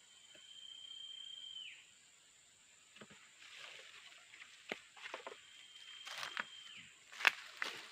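A long, high whistled note, held for about a second and a half and then dropping away, sounds twice, with rustling and several sharp clicks in between. A steady high insect drone runs underneath.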